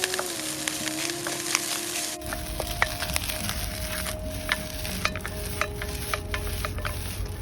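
Fried rice sizzling in an iron stir-fry pan over a campfire, with a spatula clicking and scraping against the pan as it is stirred. A low rumble joins about two seconds in.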